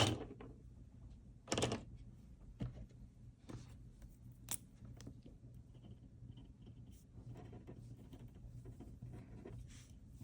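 Pen drawing on paper: a few short, sharp strokes in the first few seconds, then faint, irregular scratching of the tip.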